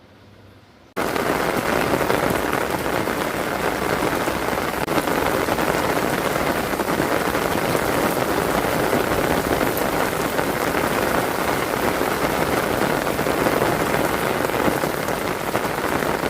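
Heavy rain pouring steadily, cutting in abruptly about a second in after a moment of faint low hum.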